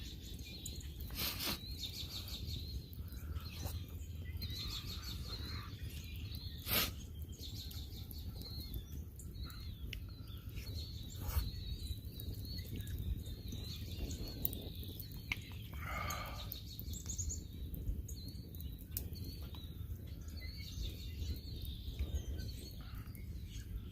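Small songbirds chirping and trilling in the woods, with a few sharp clicks or snaps, the loudest about seven seconds in, over a steady low outdoor rumble.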